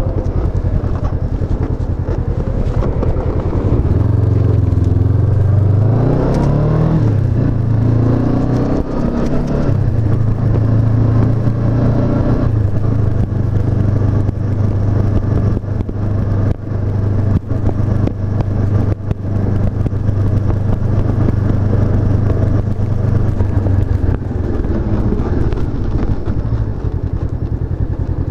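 Honda CB500F's parallel-twin engine running on the road, heard from the rider's position. It rises in pitch as it accelerates about four seconds in, drops back around eight seconds, then holds a steady note with a few brief dips in the middle.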